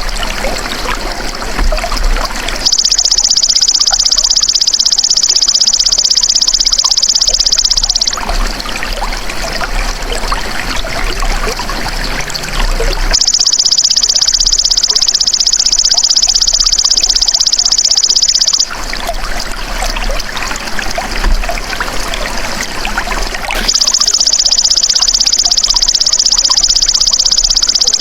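Belalang emas (golden grasshopper) singing in three long, even, high-pitched buzzes of about five seconds each, the first starting about three seconds in and the last still going at the end, over the steady trickle of flowing water.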